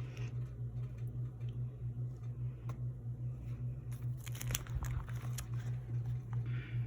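Plastic crinkling and rustling from hands handling collection items, with scattered small clicks and a denser burst of crackling about four seconds in, over a steady low hum.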